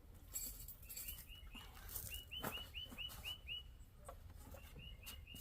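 A small bird singing faintly: runs of quick, repeated chirps, about four a second, with a few light metallic clicks of hand tools.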